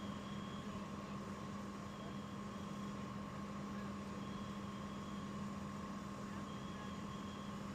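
Steady mechanical hum, like an idling engine or running machinery, over a constant hiss, with a faint high tone repeating about every two seconds.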